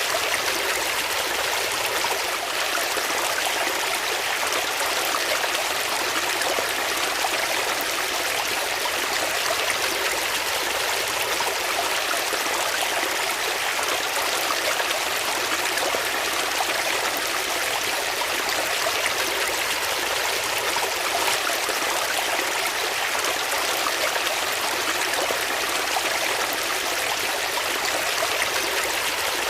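Flowing water, a steady stream running and trickling without a break.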